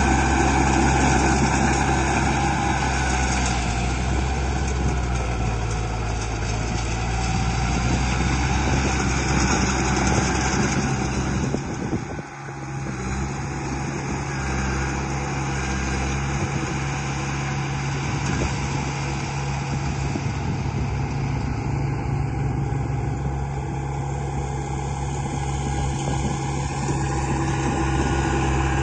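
A radio-controlled model construction vehicle running: a steady, engine-like drone with a mid-pitched whine over it, dipping briefly about twelve seconds in.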